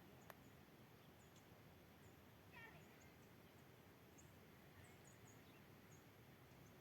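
Near silence: faint outdoor ambience with small birds chirping, short high chirps scattered throughout and one slightly louder call about two and a half seconds in. A single sharp click sounds near the start.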